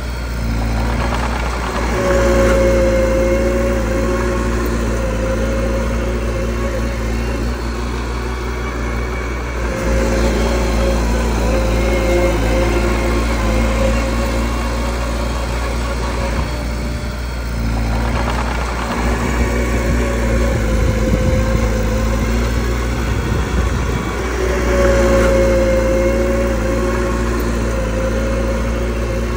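Mini bulldozer's diesel engine running steadily, its note swelling and easing off several times as the machine works.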